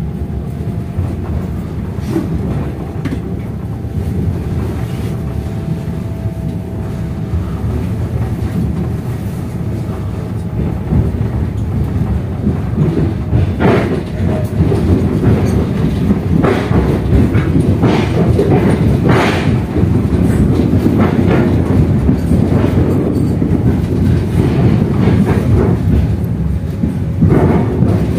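Passenger train running on the rails: a steady low rumble with the wheels clacking over rail joints, growing louder with more pronounced clacks from about halfway.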